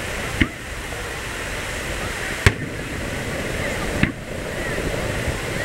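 Aerial firework shells bursting over the sea: three sharp booms, about half a second, two and a half seconds (the loudest) and four seconds in, over the steady rush of surf on the beach.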